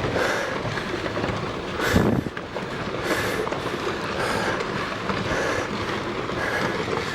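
Rockfall on a volcano slope: a continuous rumble of rocks tumbling down, with repeated clattering knocks of stones striking each other and a heavier impact about two seconds in.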